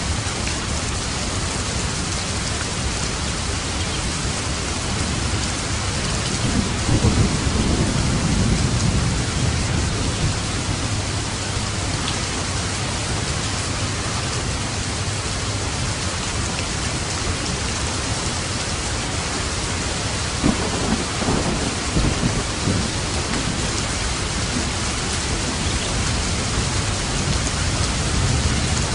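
Steady rain falling on a roof, with two rolls of low thunder: one about six seconds in that lasts a few seconds, and another about twenty seconds in.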